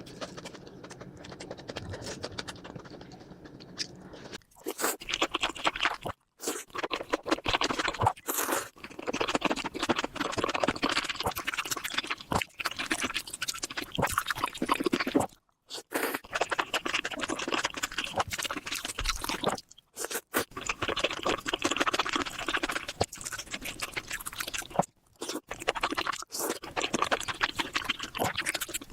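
Close-miked chewing and wet, crunchy mouth sounds of a person eating spicy curry with rice, for ASMR. The chewing is made up of dense crackling clicks, starts about four seconds in after a quieter stretch, and is broken by several sudden short gaps where one clip is cut to the next.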